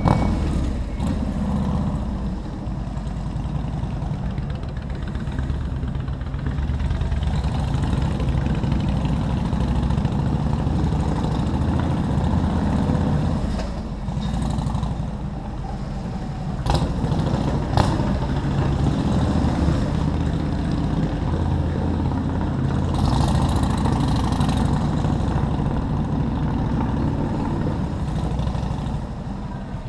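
Motorcycle engine running while riding through city traffic, its low hum rising and easing with speed. Two sharp clicks come a little past halfway, and a brief hiss about three-quarters of the way through.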